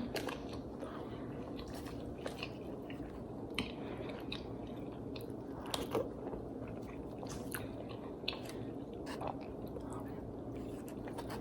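Mouth sounds of someone chewing food close to the microphone, with scattered small clicks and smacks over a low steady background.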